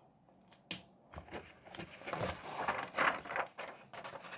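Close handling of paper and pen: a sharp click under a second in, then irregular rustling and scratching.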